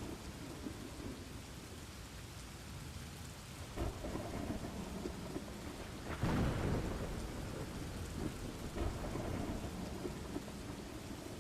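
Steady rain with rumbling thunder, the loudest peal starting about six seconds in.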